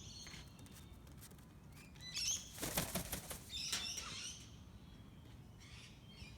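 Parrot wings flapping in a flurry of short bursts, about two to four seconds in, with a few brief high chirps among them.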